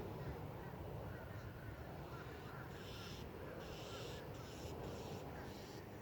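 Crows cawing: a run of about five harsh caws in the middle, with faint chirps of other birds throughout.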